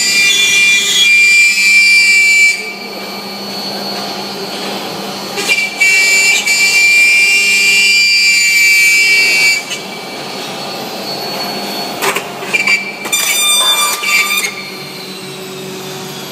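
Milling spindle on an ABB IRB 4400 robot cutting SMC composite, a high whine that grows loud during two long cutting passes and a few short bursts near the end, dropping to quieter running between them over a steady low hum.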